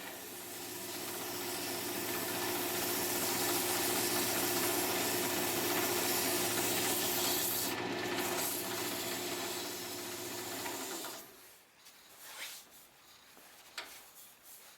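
Wood lathe running with a steady motor hum while abrasive is rubbed against the spinning wooden handle, sanding it. The lathe stops about eleven seconds in, leaving a few light scrapes and taps.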